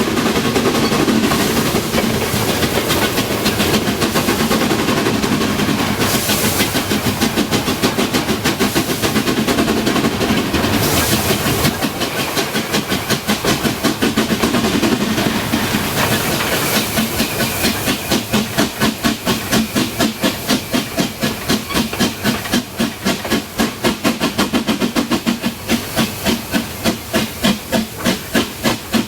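Narrow-gauge steam locomotive working, its exhaust chuffing in a quick, even rhythm over a steady hiss of steam. The separate beats stand out more clearly from about halfway.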